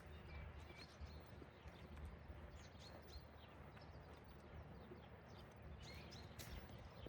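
Small birds chirping faintly in many short calls over a steady low city rumble, with a few faint clicks.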